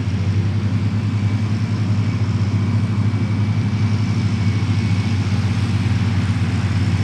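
Tractor engine running steadily at a low, even speed, with a fast, regular chug.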